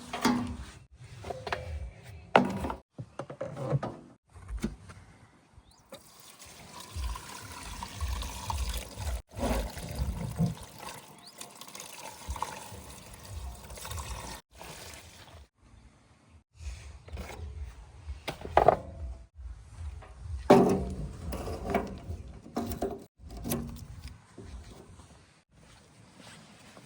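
JCB 3DX backhoe loader at work, with loose mud sliding and pouring from its bucket over a low engine rumble. It comes in short stretches that cut off abruptly.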